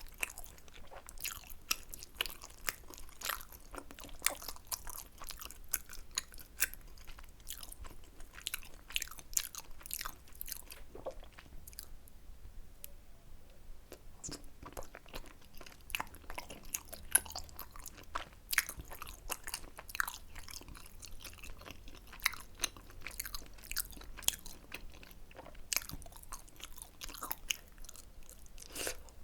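Close-miked eating sounds: a person chewing and biting tteokbokki (spicy rice cakes), with many small sharp mouth and food clicks. The clicks ease off for a couple of seconds about twelve seconds in.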